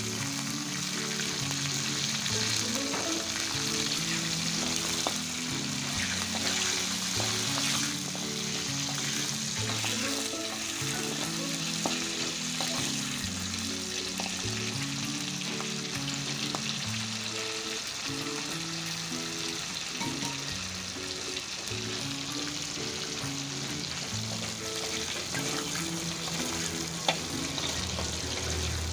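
Shallots, garlic and chilies sizzling in hot oil in an aluminium wok, stirred with a metal spatula that scrapes and taps on the pan. Background music with a slow, stepping bass melody runs underneath.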